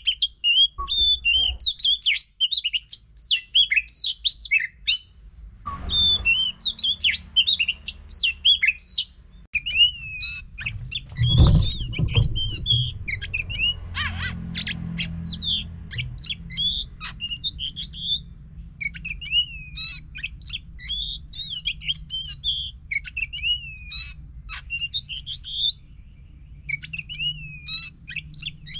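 Oriental magpie-robin (kacer) singing hard: a fast, almost unbroken run of varied high whistles and chattering notes, with a short pause about nine seconds in. A low hum comes in about six seconds in, and a dull thump sounds near the twelve-second mark.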